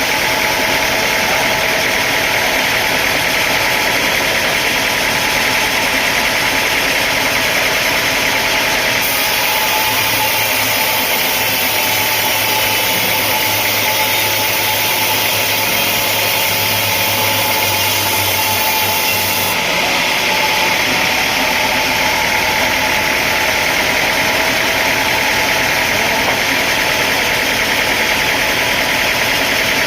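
Sawmill machinery running steadily, a continuous engine-like noise. Its tone changes abruptly about nine seconds in and changes back about twenty seconds in.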